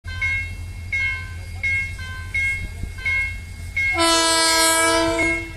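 TCDD DE 33000-class diesel-electric locomotive's air horn giving one long, loud multi-tone blast about four seconds in, lasting over a second. Before it, a short high tone repeats about every 0.7 s over a low rumble.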